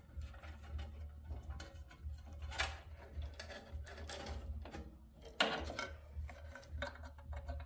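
Scattered light clicks and knocks of hand-worked metal parts and tools while a battery is fitted into a garden tractor, with one louder knock about five and a half seconds in, over a steady low hum.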